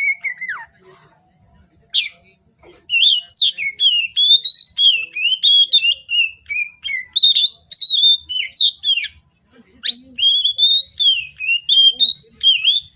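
Oriental magpie-robin (kacer) singing a fast, varied string of clear whistled phrases that slide up and down, with a short break before the start of each stretch of song.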